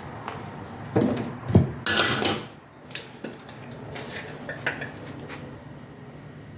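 Kitchen pots and utensils clattering: a couple of knocks about a second in, a louder clatter around two seconds, then a few lighter clinks.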